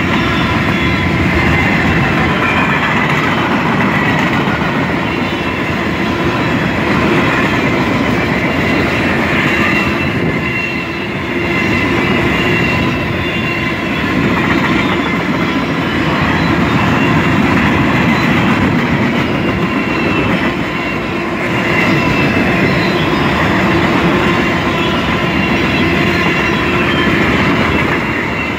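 Freight cars of a Canadian National mixed train, boxcars and tank cars, rolling past at close range: a steady noise of steel wheels running on the rails, with faint high tones coming and going.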